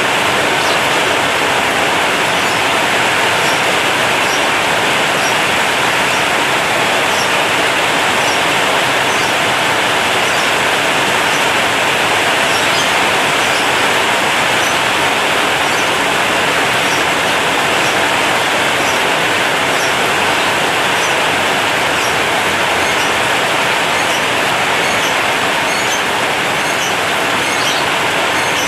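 Heavy rain drumming on a corrugated zinc roof: a dense, steady hiss with scattered small sharp ticks of drops on the metal.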